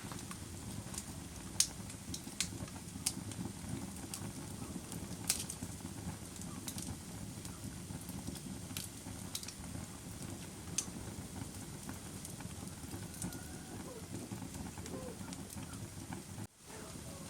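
Bonfire crackling: a steady low rush of burning, broken by sharp, irregular pops and snaps every second or so. The sound drops out for a split second near the end.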